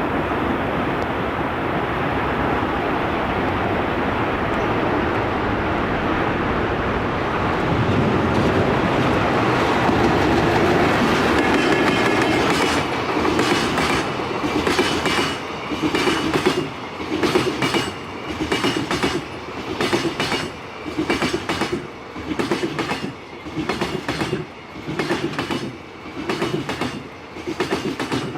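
Freight train passing close by: a steady heavy rumble at first, then from about halfway the rhythmic clickety-clack of wagon wheels over rail joints, about one beat a second.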